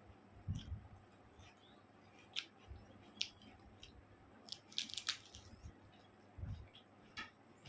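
Mouth sounds of someone eating chicken curry with rice: scattered wet clicks and lip smacks of chewing, with a few soft low thuds, loudest about five seconds in.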